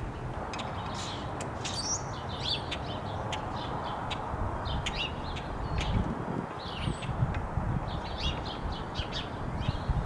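Small birds chirping in quick, short calls throughout, over a steady low wind rumble on the microphone.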